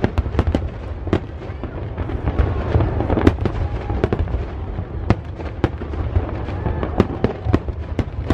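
A harbour fireworks display going off: a dense string of sharp bangs, at times two or three a second, over a continuous low rumble.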